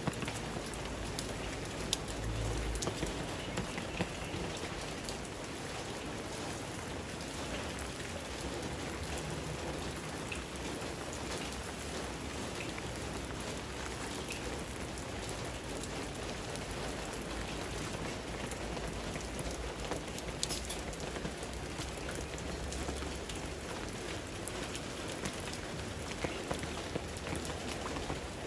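Steady rain falling on leaves, moss and puddles, with scattered small ticks of individual drops.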